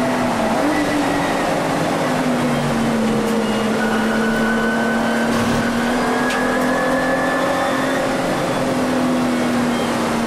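Volkswagen Vento VR6's narrow-angle six-cylinder engine heard from inside the cabin, running at high, fairly steady revs with no gear changes, over road and wind noise.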